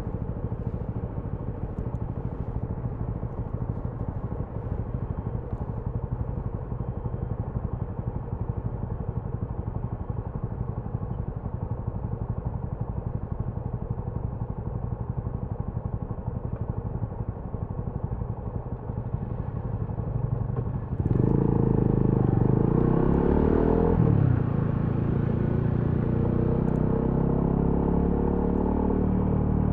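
TVS Apache RTR 200 4V's single-cylinder engine running at a steady note, then about twenty seconds in it turns louder and its pitch sweeps up and down as the bike pulls away and accelerates, settling at a higher, steady note near the end.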